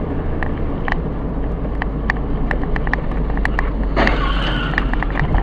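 Car interior engine and road noise picked up by a dashcam, a steady low rumble. Scattered sharp clicks run through it, with a brief rush of noise about four seconds in.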